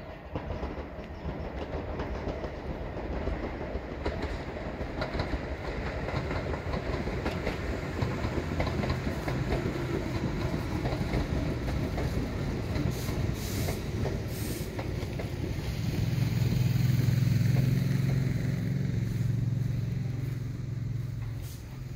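Electric commuter train pulling into the station, its wheels clattering over the rails and growing louder as it nears. About two-thirds of the way through a steady low hum comes in and is the loudest part, easing off as the train draws up at the platform.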